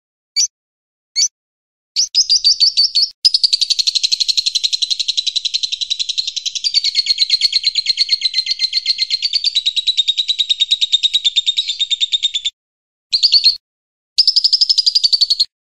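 Recorded songbird calls: two single high chips, then a long, fast chattering trill lasting about ten seconds, then two short bursts of the same chatter near the end.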